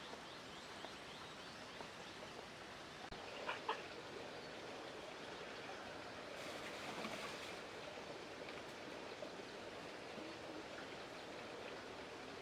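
Faint, steady outdoor background noise, with two short clicks about three and a half seconds in.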